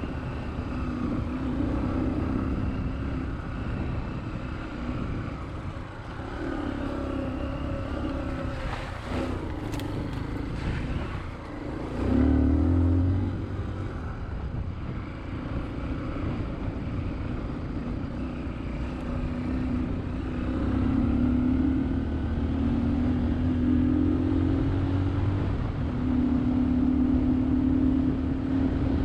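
Dirt bike engine running while riding, its pitch rising and falling with the throttle, with a brief louder rev about twelve seconds in.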